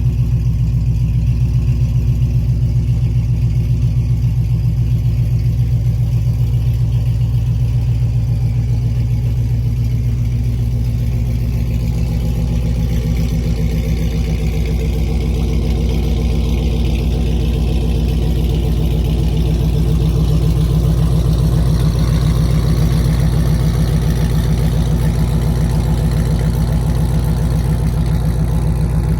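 Drag car engine idling loudly and steadily with an even pulse. It grows slightly louder about two-thirds of the way through.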